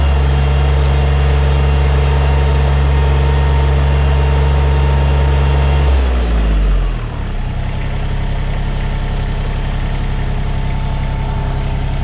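New Holland Workmaster 25S compact tractor's diesel engine running steadily at raised speed, then dropping in speed about six seconds in and settling to a lower, steady idle.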